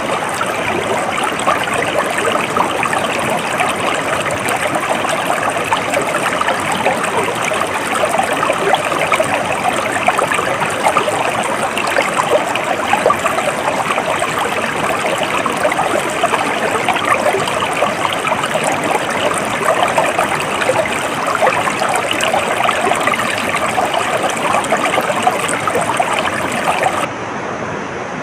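A stream of water flowing steadily over stones, a continuous babbling rush. About a second before the end it switches abruptly to a quieter, duller recording.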